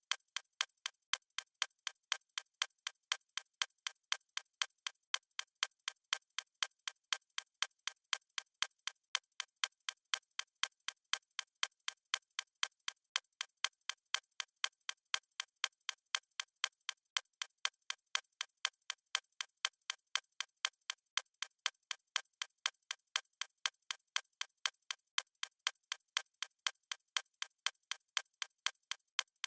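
Fast clock-tick sound effect of a stopwatch: sharp, bright, evenly spaced ticks, several a second, in a steady unbroken rhythm.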